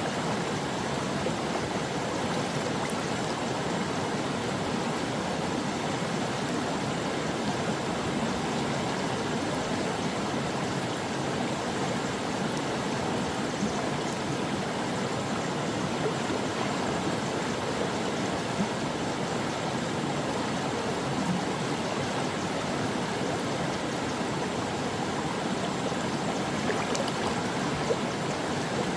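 A stream of water flowing and babbling over rocks, a steady rushing with small gurgles and splashes.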